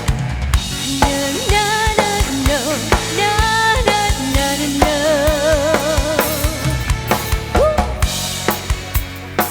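Live band playing an instrumental passage: a steady drum kit beat with bass drum and snare, under a lead melody that slides between notes with wide vibrato.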